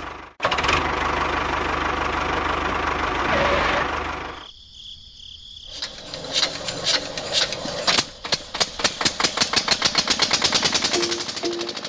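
Engine sound of a tractor running, cut short about four seconds in; after a brief lull it starts chugging in even beats that speed up, like an engine being started and revved.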